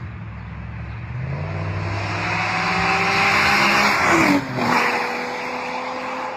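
Lamborghini sports car engine accelerating hard, its note climbing in pitch and getting louder. Just after four seconds it breaks briefly and drops in pitch, then runs on more steadily and fades slowly.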